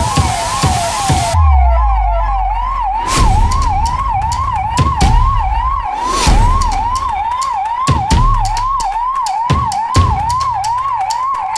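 Police vehicle siren in a rapid yelp, its pitch sweeping up and down about three times a second. Low rumbles and scattered knocks sound underneath.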